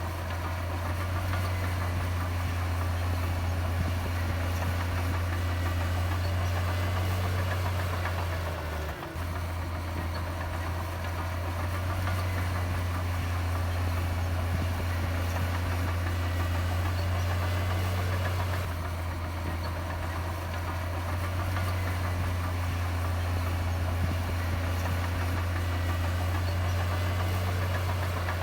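Heavy diesel earthmoving machinery running steadily with a deep, constant engine drone, briefly dipping about nine seconds in.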